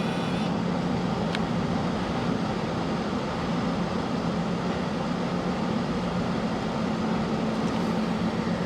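Steady road and engine noise heard inside a moving car's cabin, with a constant low hum.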